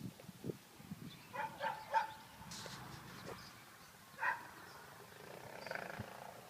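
Faint animal calls: a short run of pitched calls about a second and a half in and another single call a little past four seconds, with a few soft thumps at the start.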